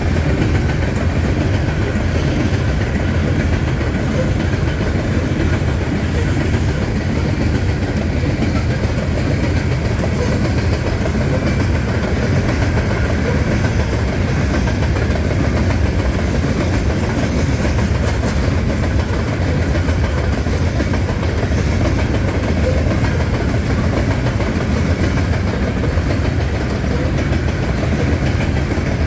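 Canadian National freight train's cars rolling steadily past at close range, a continuous heavy rumble of wheels on rail with no horn.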